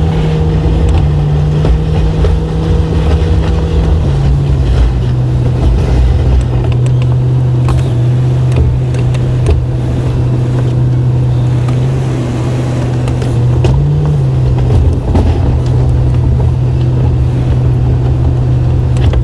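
Plow truck's engine running steadily, a loud low drone that steps down in pitch about four seconds in and swells briefly near the end.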